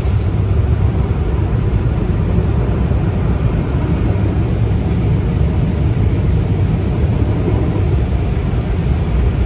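Tunnel car wash equipment working on the car, heard from inside the car: a steady, loud rushing noise with a deep rumble underneath.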